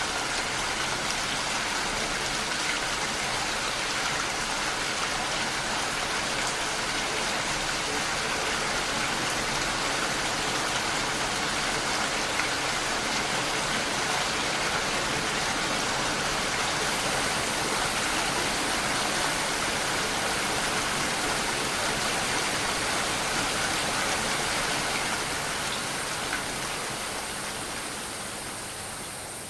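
Steady rain falling, a dense even hiss of many drops, fading down over the last few seconds.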